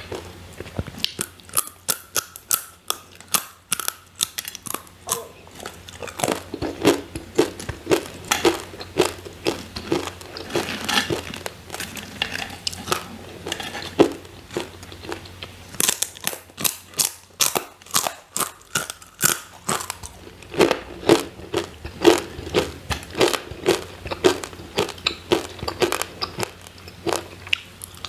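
Close-miked biting and chewing of crispy sweet potato chips: a fast, continuous run of sharp, brittle crunches.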